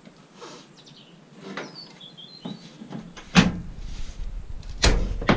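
Several sharp knocks and clanks of scrap metal being handled and dismantled, the loudest about three and a half and five seconds in, with a short high chirping sound around two seconds in.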